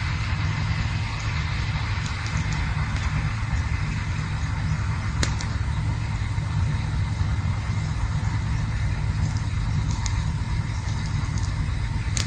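Campfire burning with a steady low rumble and a few sharp crackles, the loudest pop about five seconds in.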